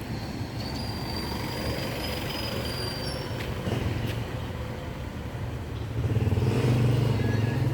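An engine running, a steady low hum that grows louder about six seconds in.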